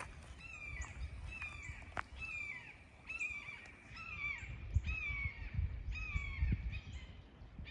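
Hawk calling overhead: a repeated series of short, descending screams, about one every half second to a second.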